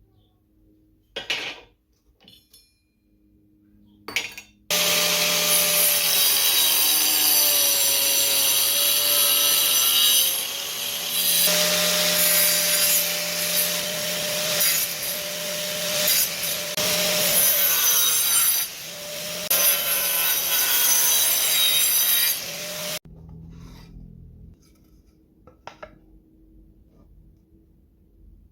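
Angle grinder running and cutting through wood: a steady motor whine with the rasp of the disc, the pitch dipping at times as it bites. A couple of short knocks come before it starts, and it stops suddenly near the end.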